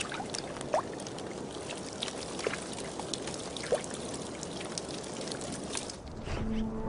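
Shallow meltwater running and trickling, with small scattered plinks of drops. Soft music with long held notes fades in near the end.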